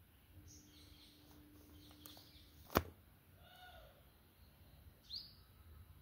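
A single sharp click a little before the middle, and about five seconds in a short high chirp from a small bird, over faint background noise.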